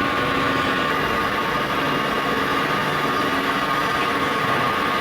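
Crankshaft grinding machine running, a steady machine hum with a constant high whine and no change in pitch.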